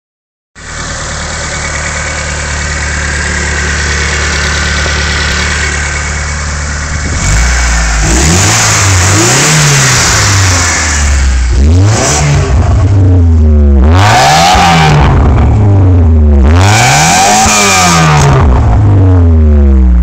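Mitsubishi Mirage engine heard through its exhaust, idling steadily and then, from about seven seconds in, revved again and again, the pitch rising and falling about five times.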